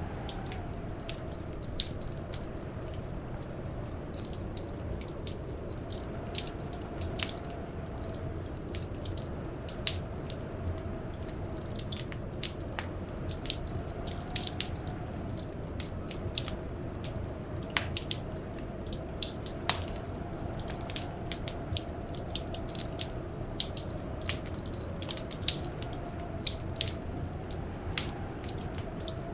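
Wood fire crackling, with frequent irregular sharp pops over a steady low rush, and a faint wavering howl of blizzard wind behind it.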